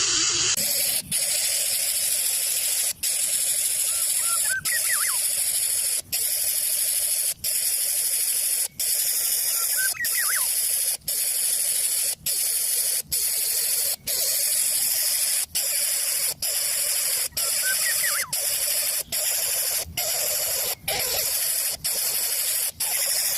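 A steady high hiss, broken by brief dropouts about once a second, with faint high squeaks a few times.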